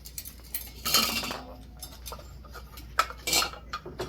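Metal fan hardware being handled: a few separate clinks and short rattles, the loudest about a second in and again about three seconds in.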